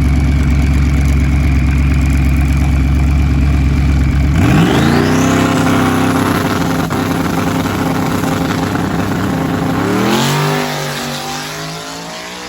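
Twin-turbo Ford Coyote V8 in a drag-racing Mustang running loud, with a steady drone and a high whine at first. About four seconds in the pitch climbs sharply and then holds, it climbs again near ten seconds, and the sound then fades.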